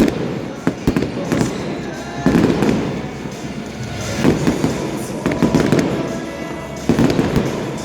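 Fireworks bursting in a series of booms and sharp crackles, a few seconds apart, with music playing underneath.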